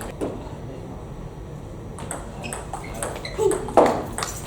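Table tennis ball clicking off bats and table during play, a series of sharp, irregular knocks with the loudest near the end.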